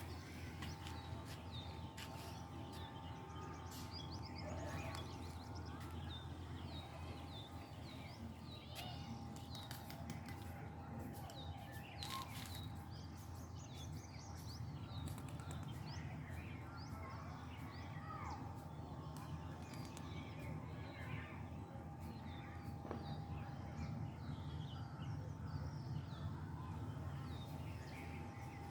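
Many small birds chirping in short, quick calls throughout, over a steady low background rumble and a faint steady hum.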